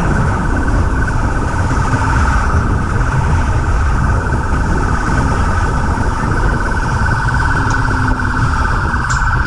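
Engine and road noise of a police car at speed in a pursuit, with a steady high tone running over it.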